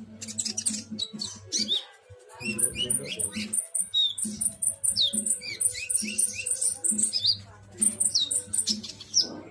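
Konin cage bird singing a rapid, chattering 'trotol' song: fast high chirps, quick repeated ticking notes and short whistled pitch glides, with a brief pause about two seconds in.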